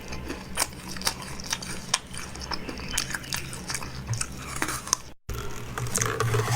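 Close-up eating sounds: a person biting and chewing, with many small irregular clicks and crunches. The sound drops out for an instant about five seconds in, then comes back busier and noisier.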